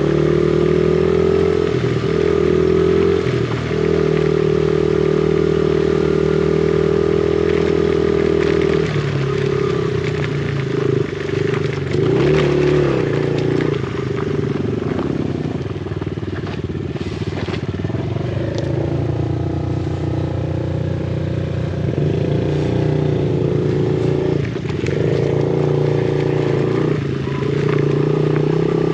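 Yamaha TT-R50 dirt bike's small four-stroke single-cylinder engine running under way, its pitch rising and falling with the throttle, with light rattles from the rough ground.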